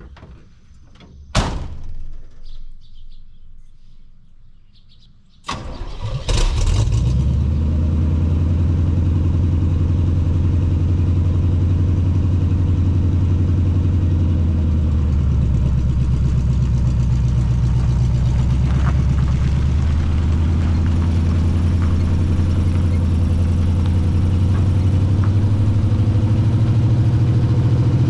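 A single thud about a second in, then the 1980 Chevy K20's 350 small-block V8 cranks and fires about five seconds in and settles into a steady idle, run through glasspack mufflers.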